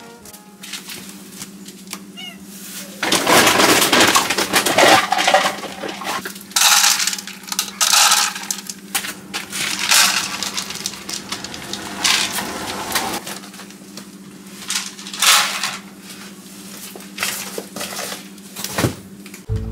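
Dry animal feed rattling out in a series of pours and scatterings as hungry animals are fed.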